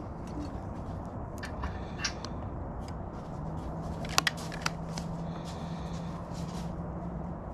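Light handling noises during plastic-welding work on a fuel tank: scattered small clicks and rustles, with a tight cluster of sharp clicks about four seconds in. Under them runs a steady hum, and a low steady tone joins it about halfway through.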